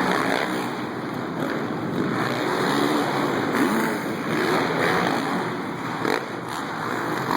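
Dirt bike engines revving up and down in pitch, under a steady rushing noise.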